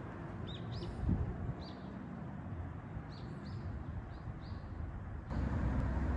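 Small birds chirping in short, high calls, in two brief runs, over a steady low outdoor rumble that steps up louder about five seconds in.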